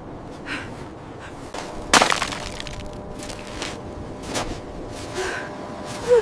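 Repeated short, breathy panting breaths, with one sharp crack about two seconds in.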